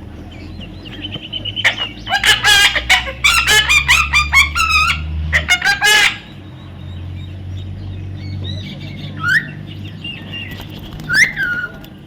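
A parrot calling: a rapid run of repeated squawking calls lasting about four seconds, then a couple of single chirps near the end.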